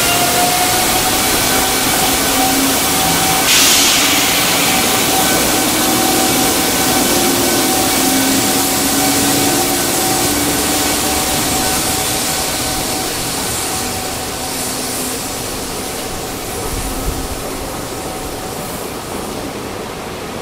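JR Freight EF210 electric locomotive pulling a container train away from a stop. Its motor whine rises slightly over the first couple of seconds, then holds, over the steady rumble of wagons and the hiss of heavy rain. A short burst of hiss comes about three and a half seconds in, and the sound slowly fades toward the end.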